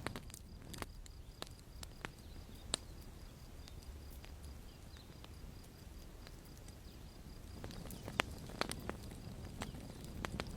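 Wood campfire crackling: scattered sharp pops and snaps over a low, steady rumble of the flames. The pops thin out mid-way and come thicker near the end.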